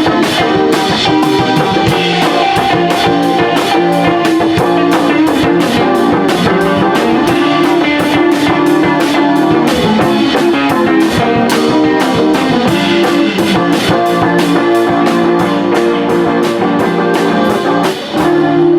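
Live rock band playing an instrumental passage: guitars over a drum kit keeping a fast, steady beat, with a brief drop-out shortly before the end.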